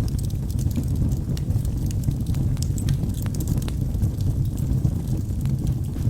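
Logs burning in a fireplace: a steady low rumble of flames with many sharp, irregular crackles and pops.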